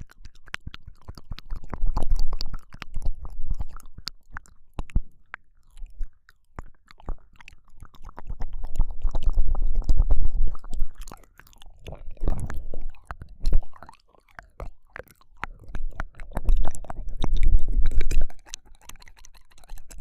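ASMR ear-licking mouth sounds into a binaural microphone: wet tongue clicks and smacks, with several louder, muffled stretches of mouthing against the ear.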